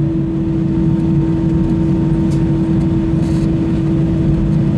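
Airbus A320 cabin noise with the engines at idle thrust during taxi: a steady low rumble and drone with a constant hum.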